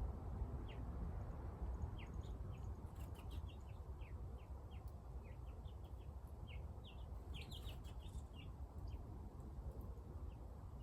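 Small birds chirping in many short, quick notes, thickest in the middle stretch, over a steady low rumble.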